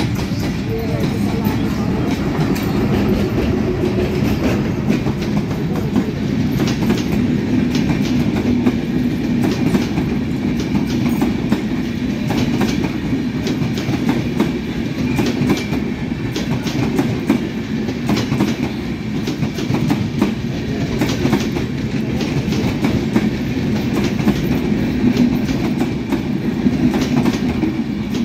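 Diesel-hauled intercity passenger train passing close by, its coaches' wheels clattering steadily over the rail joints.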